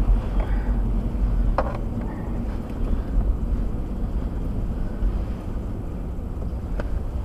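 Steady low rumble of a car's engine and tyres on a snowy road, heard from inside the cabin, with a couple of brief clicks.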